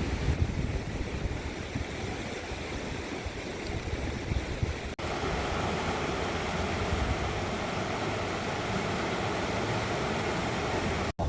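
Steady outdoor rushing noise with a gusty low rumble, broken by two brief cuts.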